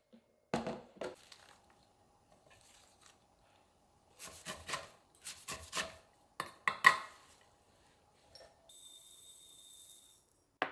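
Kitchenware being handled: two knocks, then a run of sharp clicks and clunks of dishes and containers set down and moved, the loudest near seven seconds in. Near the end comes a steady hiss with a high tone, lasting about a second and a half.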